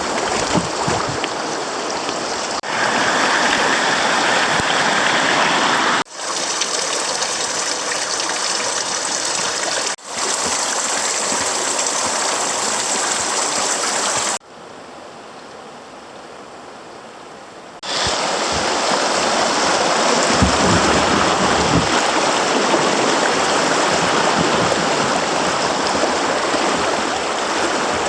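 Creek water rushing and running steadily, heard in several short clips that cut from one to the next, with one quieter stretch a little past the middle.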